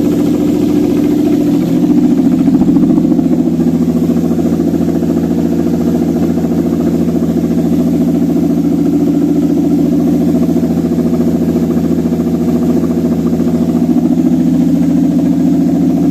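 Toyota 5VZ-FE 3.4-litre V6 engine idling steadily while being test-run on an engine stand, a little louder for a moment about two seconds in.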